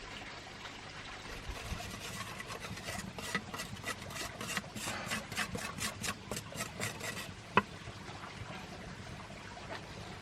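A run of rhythmic scraping strokes, about three a second, ending with one sharp click, over a steady low hiss.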